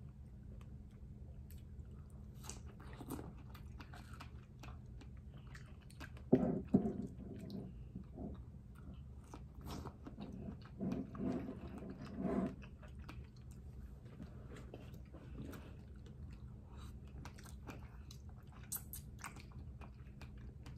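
Close-miked wet chewing and lip smacks of someone eating soft fruit coated in sweetened condensed milk, with a few louder clusters of mouth sounds about six seconds in and again around eleven to twelve seconds, over a steady low hum.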